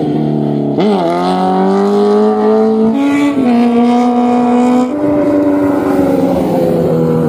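High-revving supercar or superbike engine running hard, its pitch holding for stretches and jumping or dipping sharply about a second in, around three seconds in and again about five seconds in, then slowly falling.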